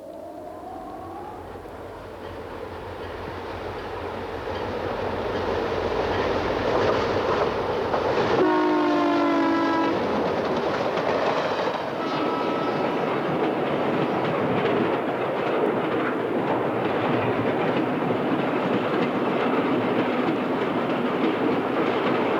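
A train coming closer, growing louder over the first few seconds, then rumbling past steadily with wheels clacking on the rails. Its horn sounds one chord for about a second and a half near the middle, followed by a shorter, fainter blast a couple of seconds later.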